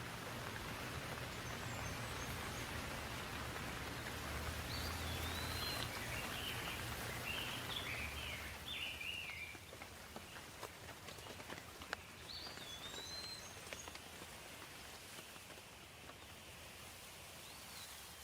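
Steady rain falling, with a bird calling in short swooping chirps, a run of them around the middle and a few more later. In the second half the rain is a little softer and single heavier drops tick through it.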